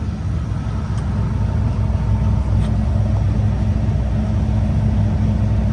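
Combine engine running steadily at a constant speed, a low even drone.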